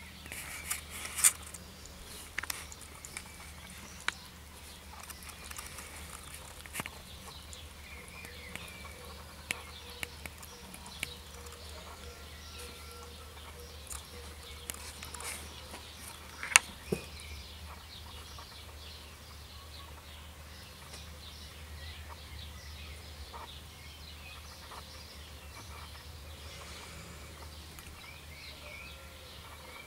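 Faint outdoor ambience: small birds chirping in the background over a low steady hum, broken by a few sharp clicks, the loudest about a second in and about 16 seconds in.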